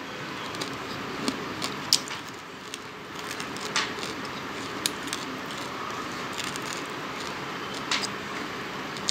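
Crisp, irregular crunching and cracking as a person bites and chews pieces of hard, dry baked clay, with a few sharper cracks scattered through.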